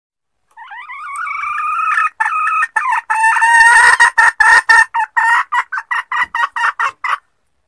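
Junglefowl hen giving her lure call: a drawn-out rising note, then a run of short clucks that quicken before stopping. This is the call used to draw wild junglefowl cocks out of hiding.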